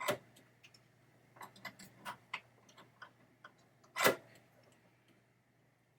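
Small metal clicks and clacks from the rebuilt pinball trap door mechanism being worked and handled: a sharp click at the start, a quick run of light ticks about a second and a half in, and a louder clack about four seconds in.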